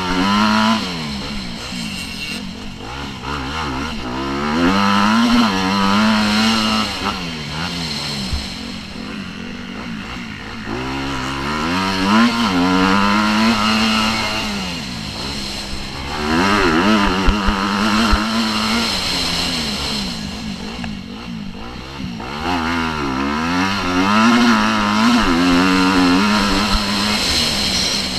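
Motocross bike engine being ridden hard, revs rising and falling over and over as it accelerates, shifts and backs off, with louder surges every five or six seconds.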